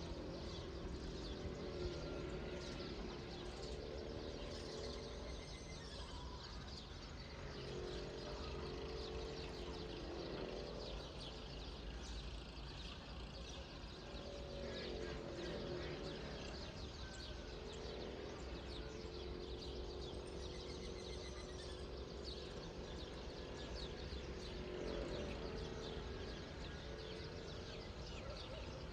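Outdoor morning ambience: birds chirping and calling over a steady low background noise, with a few higher calls and some held lower tones coming and going.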